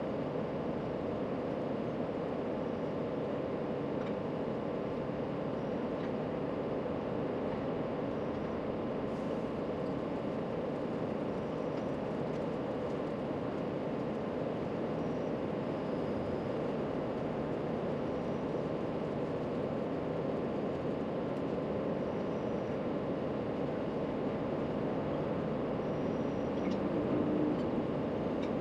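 Steady background rumble, an even hum with no clear events.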